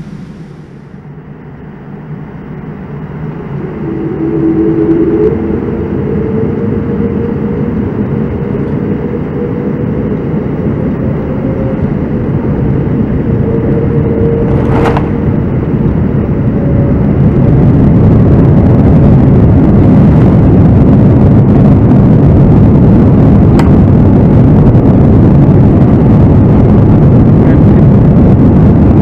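Boeing 787-9's Rolls-Royce Trent 1000 engines spooling up to takeoff thrust, heard from inside the cabin: the engine noise builds steadily over the first half into a loud, steady rush. There is a single sharp click about halfway through.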